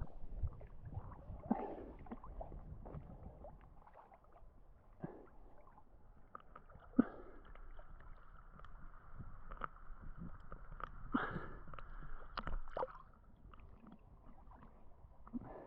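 Muffled underwater sound picked up by a GoPro camera held under the water: faint gurgling and sloshing with scattered clicks and knocks, and a faint steady hum through the middle.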